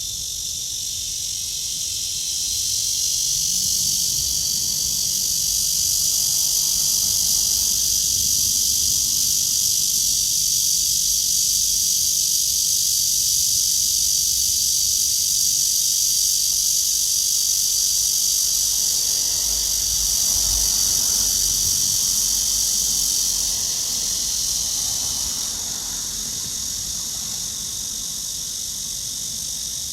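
Cicadas singing, a steady high-pitched buzz that swells louder a few seconds in and drops back down near the end.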